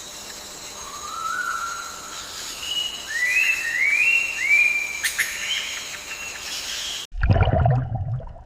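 A bird's whistled calls: a series of five or six short notes, each sweeping upward, over a steady hiss. About seven seconds in, the sound cuts abruptly to a louder low, watery rumble.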